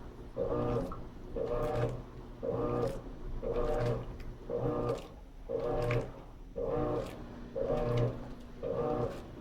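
Electrolux LT13B top-load washing machine in its agitation stage: the motor hums in short, even strokes, about two a second, as the agitator swings back and forth.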